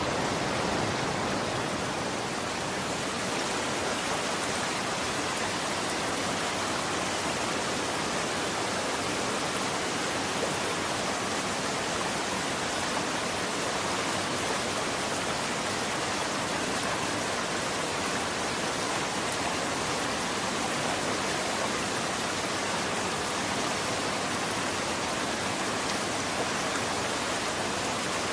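Running water flowing steadily: an even rushing hiss with no distinct splashes or changes.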